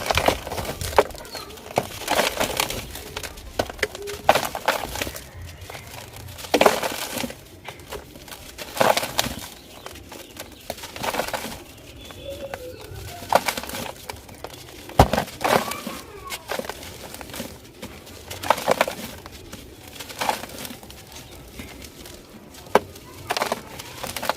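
Dry, dusty crunchy material being crushed and crumbling, in irregular crisp crunches every second or two.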